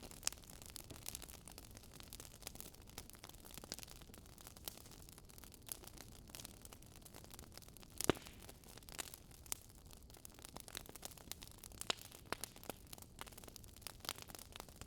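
Campfire crackling faintly: irregular sharp pops and snaps of burning wood over a soft steady hiss, with one louder pop about eight seconds in.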